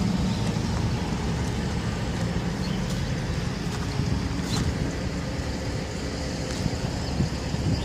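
Steady outdoor rumble of road traffic mixed with wind on the microphone, a few faint clicks showing through.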